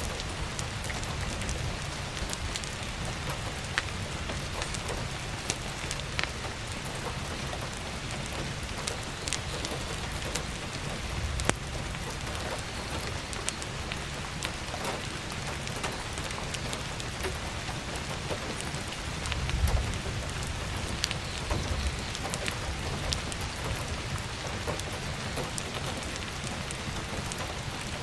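Steady heavy rain, with scattered sharp crackles and pops of burning firewood. A brief low rumble comes about two-thirds of the way in.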